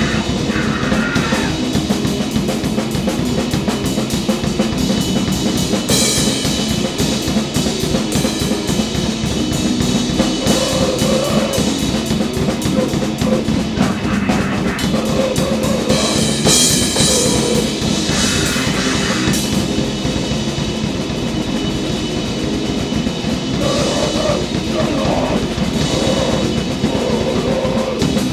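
Noisegrind band playing: a drum kit pounding under a dense, unbroken wall of distorted noise, with several brighter, harsher surges along the way.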